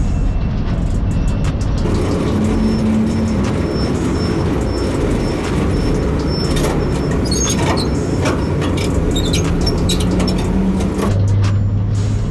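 Semi-truck's diesel engine running with a steady low rumble and many sharp rattling clicks, its note shifting a few times.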